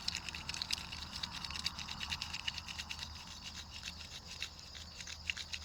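Chipmunks rummaging and eating in a bowl of seeds: a long run of fine, rapid scratchy clicks and crunches, with a faint steady high hum behind.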